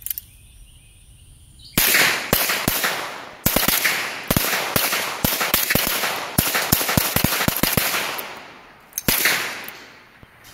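A rapid, irregular volley of .22 rimfire gunshots from several guns firing together: about twenty sharp cracks over some six seconds, each with a short echo. One last shot follows about a second later.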